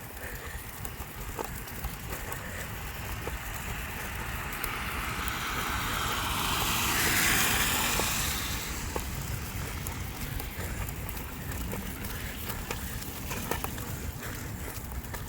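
A car passing by: its tyre and road noise swells to a peak about seven seconds in, then fades, over a steady low rumble with scattered faint ticks.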